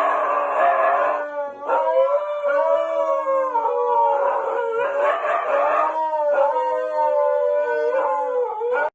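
Dog howling in long, drawn-out notes that waver and slide in pitch, with a couple of short breaks for breath. It cuts off suddenly near the end.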